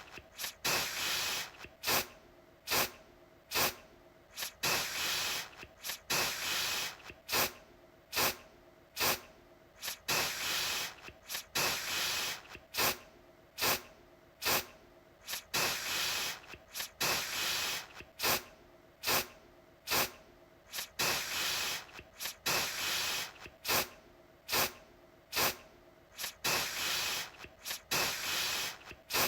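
Aerosol deodorant can sprayed again and again in quick hissing bursts, about one a second. Most are short puffs, and a few are longer sprays of nearly a second.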